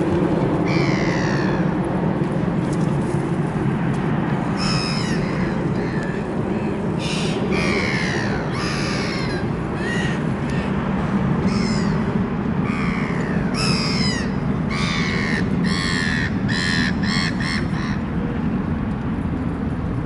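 Birds calling: a series of short, harsh calls with falling pitch, coming more often in the second half, over a steady low rumble.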